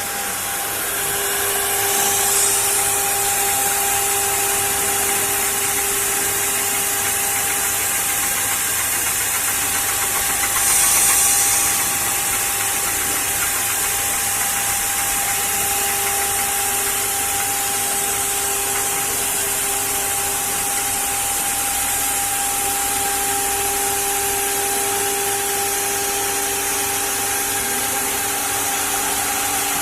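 9 kW spindle of a 1325 four-axis CNC router running at speed: a steady high whine over a wide mechanical hiss, with a brief louder hiss about eleven seconds in.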